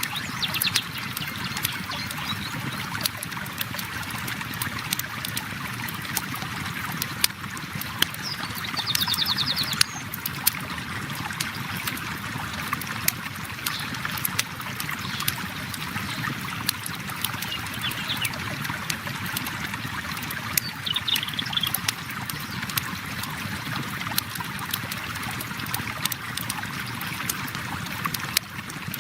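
Flowing river water with a campfire crackling over it in frequent sharp pops. Short high chirps come in about nine seconds in and again around twenty-one seconds in.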